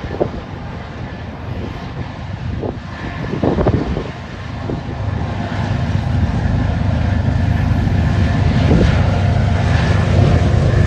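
Diesel-electric freight locomotives (a GE ES44C4, an EMD SD70ACe and a GE C44-9W) running under power at the head of an intermodal train. Their low engine rumble grows louder about halfway through and then holds steady. Gusts of wind hit the microphone in the first few seconds.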